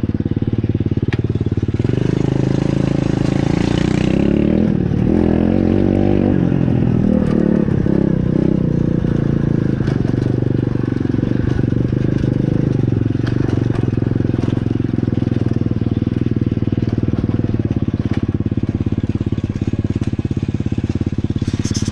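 Pit bike's small engine running steadily while being ridden, its pitch rising and falling with the throttle for a few seconds early in the ride.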